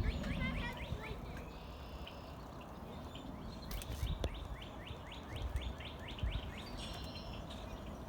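Wild birds calling and singing. The loudest part is a rapid run of short, downward-sliding chirps, about five a second, in the middle, with other scattered chirps and a few thin whistles near the end. A low rumble runs underneath.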